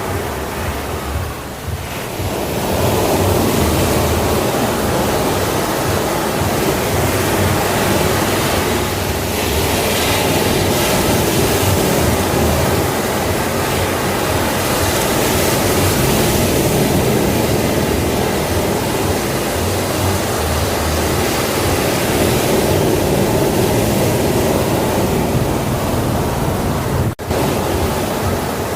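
Sea waves and surf, a continuous rushing wash that swells and eases slowly, with a momentary dropout near the end.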